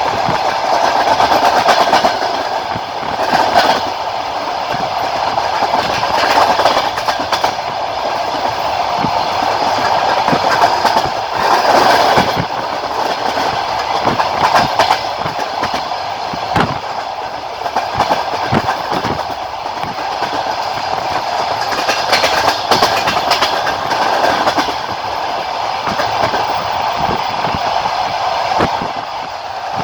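Passenger train carriage wheels clattering over the rail joints while running at speed, heard from aboard the train: a steady rolling rumble with irregular sharp clicks and knocks, more of them in the middle of the stretch.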